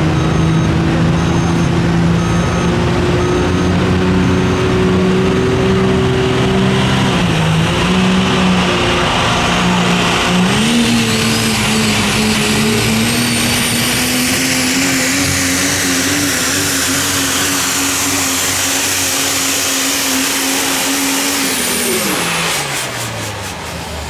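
Super stock diesel pulling truck engine running hard under load, its pitch dipping briefly and climbing again partway through, with a high turbocharger whistle rising over it. About two seconds before the end the engine lets off and its pitch falls away sharply, the end of the pull.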